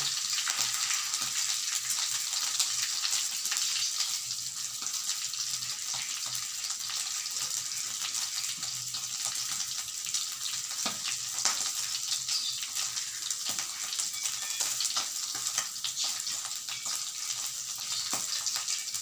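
Pieces of beef rendang frying in a shallow pool of hot oil in a wok: a steady sizzle with scattered crackles, and a couple of louder pops a little past the middle.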